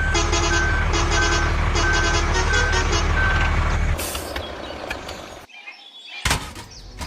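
A truck's reversing alarm beeps about six times, evenly spaced, over a steady engine rumble. Both stop at about four seconds. After a brief quiet, a short loud noise comes near the end.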